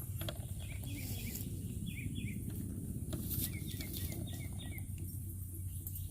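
Birds chirping: short high chirps in little runs of two or three, over a steady low rumble.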